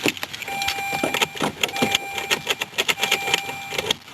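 A 2001 Volvo's warning chime sounds a steady beep about once every second and a quarter. Irregular sharp clicks and rattles of keys and handling run between the beeps.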